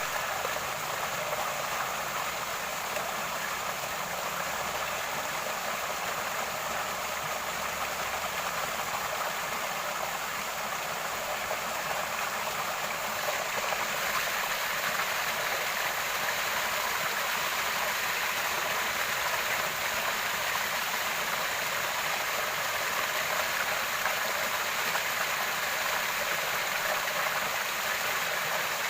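Flowing water: a steady rushing like a stream or small cascade, growing slightly louder about halfway through.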